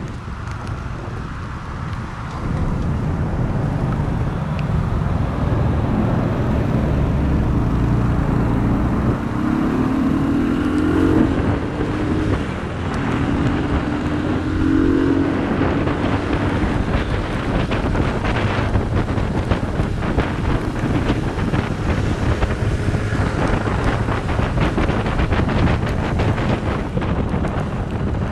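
Steady rain falling with traffic noise; near the middle a motor vehicle passes, its engine rising in pitch twice as it accelerates.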